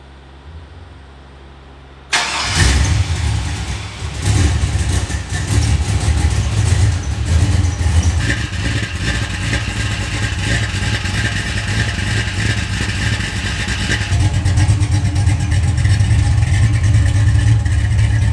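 LS-swapped 6.0-litre V8 in a 1970 Oldsmobile Cutlass, fitted with a Sloppy Stage 2 cam, starting about two seconds in and then running, with a brief rev soon after the start.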